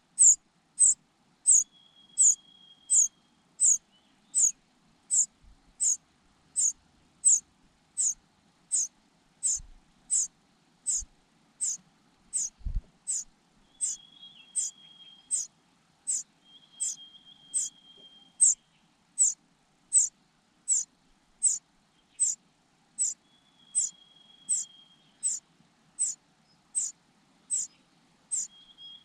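Cuckoo nestling begging: short, very high peeps repeated at an even pace of about one and a half a second, with a fainter thin held note coming in now and then.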